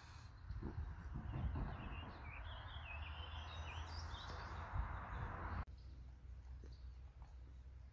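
Birds chirping over a steady outdoor background hiss and low rumble during the first few seconds; the sound cuts off abruptly about five and a half seconds in, leaving a fainter background.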